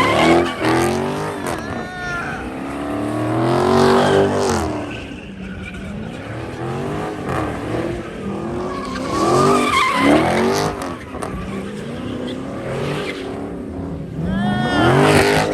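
Car engine revving hard in repeated rising and falling surges, with tires squealing as the driven wheels spin.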